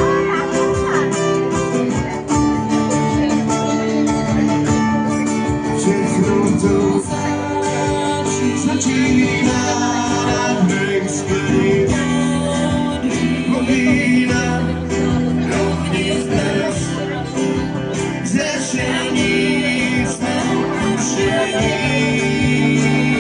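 A live band playing a song, with guitar to the fore, running on without a break.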